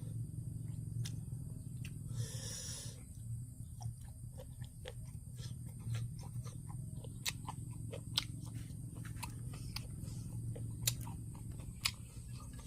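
A person eating close to the microphone: chewing with many small scattered clicks, and a short hiss about two seconds in, over a steady low hum.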